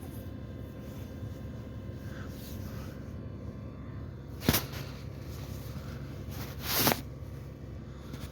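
Steady low hum of the Ford Edge's engine idling, with a sharp click about four and a half seconds in and a brief noise that swells and cuts off just before seven seconds.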